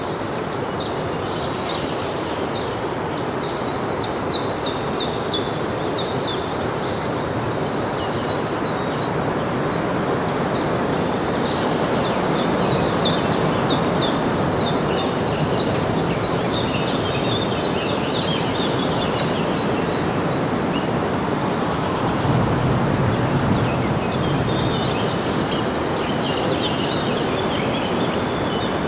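Small birds chirping and twittering in quick runs of short high notes over a steady, even background rush of outdoor noise. A low rumble swells briefly about twenty-two seconds in.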